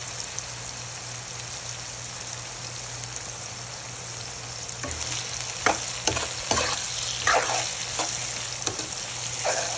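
Diced round pumpkin and onion sizzling steadily in hot oil in a pan. From about halfway through, a steel spoon stirs and scrapes the pan in a run of short strokes.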